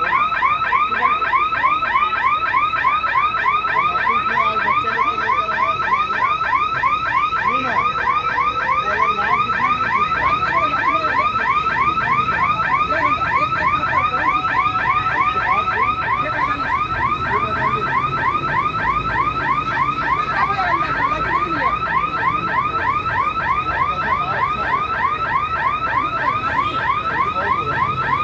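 Electronic alarm siren sounding a fast, steady, repeating warble of high chirps, about four a second, with a low rumble underneath.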